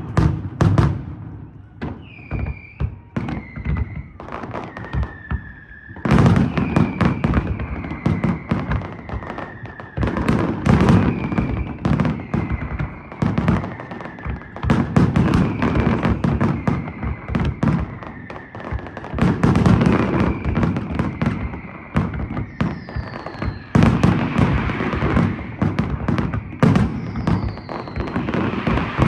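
Daytime fireworks display: rapid, dense salvos of shell bursts and bangs. Shrill whistling tones run through the bangs, each slowly falling in pitch over a few seconds.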